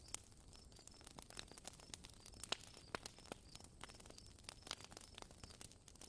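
Campfire crackling: wood popping and snapping in irregular sharp cracks, faint overall.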